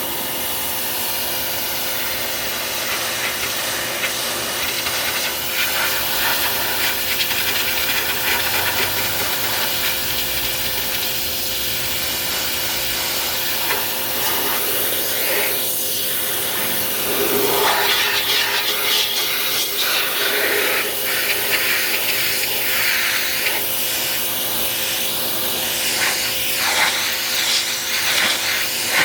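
Pressure washer jet spraying onto a car's bodywork: a steady hiss of high-pressure water with a steady hum under it, its texture changing as the jet sweeps across the surfaces.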